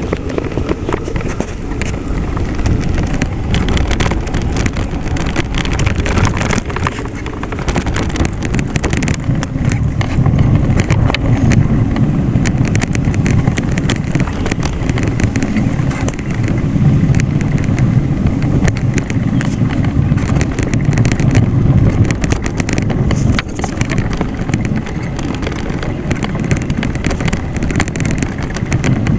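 Steady low rumble of a ride in motion: wind buffeting and road noise on the microphone, with no clear engine pitch.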